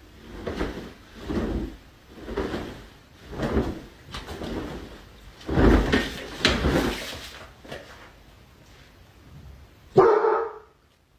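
A dog barking in a steady series, about one bark a second, which tails off after about seven seconds. One more louder bark comes near the end.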